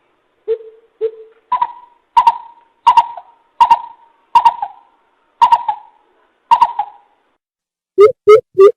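Coucal (bìm bịp) calling: a series of deep hooting notes about two-thirds of a second apart, the first few lower and the rest pitched about an octave higher. A faster run of notes begins near the end.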